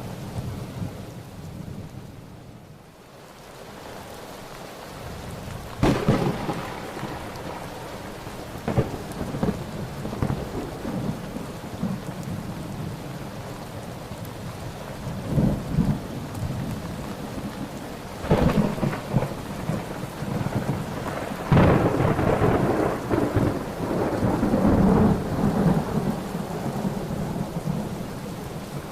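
Thunderstorm: steady rain with thunder, sharp cracks about six seconds in and twice more in the second half, and rolling rumbles between.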